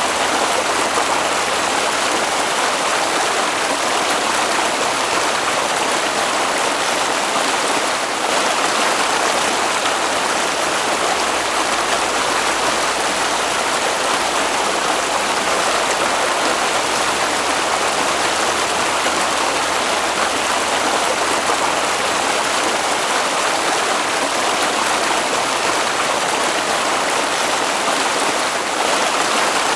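Flowing water rushing steadily, as of a stream: an even, unbroken noise with no pauses or separate events.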